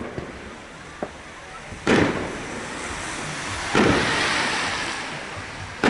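Aerial fireworks bursting at a display: a faint pop about a second in, loud bangs near two and four seconds, and another at the very end. The bang near four seconds is followed by a hiss that fades over about a second and a half.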